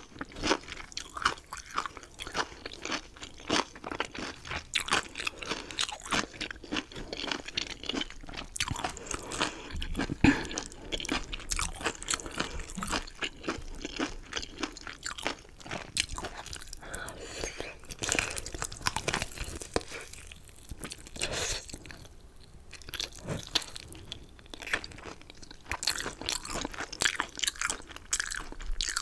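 Close-miked eating of chicken wings and chicken gizzards: a steady run of crisp crunches and wet chewing, bite after bite, easing briefly about two-thirds of the way in.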